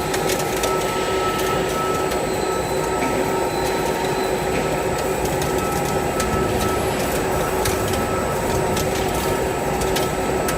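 XGY-U30NC milling head running steadily on a CNC machine: a constant mechanical hum and whine with several steady tones, with scattered light ticks.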